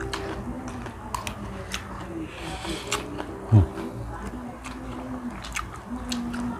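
Eating sounds from hand-fed grilled seafood: wet clicks and smacks of chewing and lips, repeated many times, over a faint low hum. About three and a half seconds in comes one short, loud, low sound that slides down in pitch.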